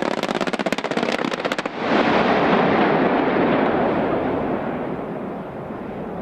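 A burst of rapid automatic gunfire: a fast string of sharp cracks lasting under two seconds, followed about two seconds in by a loud rolling roar that slowly fades away.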